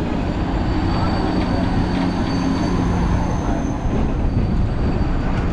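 Multi-car studio tour tram rolling along, a steady running rumble and hum with a faint thin high whine over it.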